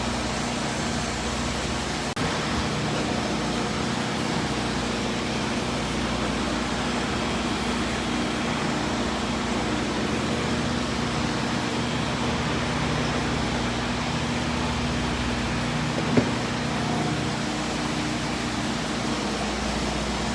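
Steady mechanical hum with a few constant low tones, unchanging throughout, with one sharp click about 16 seconds in.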